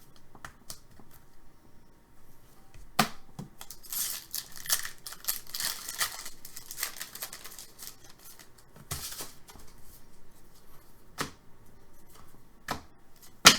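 Trading cards and their plastic packaging being handled: a crinkly rustle through the middle, with several sharp clicks and taps.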